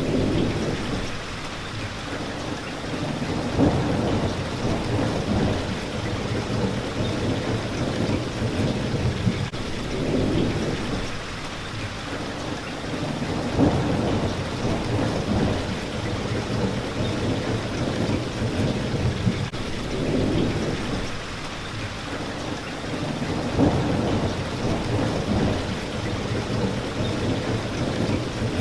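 Steady rain hitting a window pane, with low rumbles of thunder swelling and fading every few seconds.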